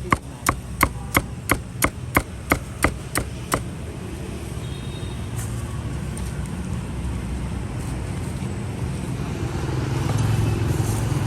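A cleaver chopping meat on a cutting board in quick, even strokes, about three a second, stopping about three and a half seconds in. After that, a steady low rumble of street traffic.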